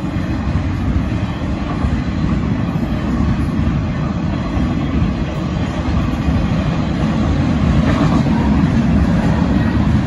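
Union Pacific freight train of empty cars rolling past: a steady low rumble of wheels on rail, growing a little louder near the end.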